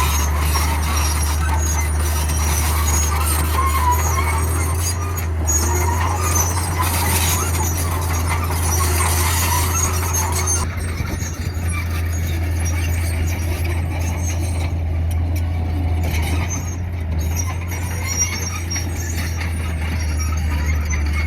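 Radio-controlled model construction machines running: a steady low drone with squealing and whining from their motors and gears, the higher squeal easing off about halfway through.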